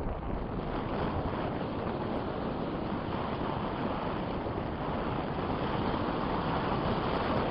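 Strong wind buffeting the microphone: a steady, dense rush of wind noise.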